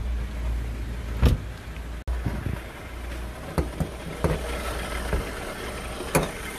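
Renault Clio 3 1.5 dCi diesel engine idling steadily, with several sharp knocks and clunks over it, the loudest about a second in.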